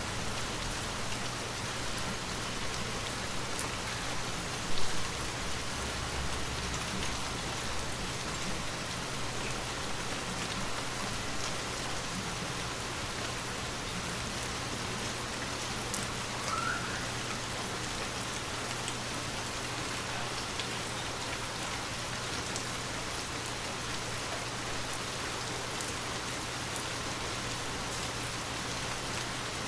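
Steady rain falling, with scattered drops ticking through it. A single louder knock about five seconds in, and a brief short rising squeak a little past halfway.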